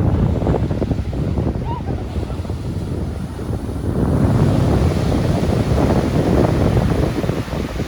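Ocean waves breaking and washing ashore, with wind buffeting the microphone in a heavy, fluttering rumble. About halfway through the wash of the surf grows and becomes hissier.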